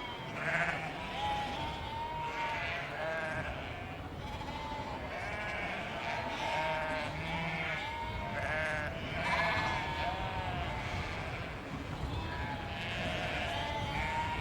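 A flock of sheep bleating, many calls overlapping and following one another without a break, over a steady low background rumble.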